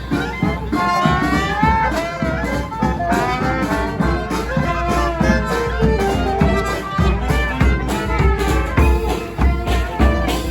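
Brass band playing a tune outdoors, with horn melody lines over a steady beat of drum strikes.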